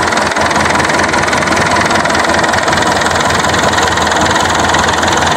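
TAFE Gajraj 5900 DI tractor's diesel engine running steadily at idle.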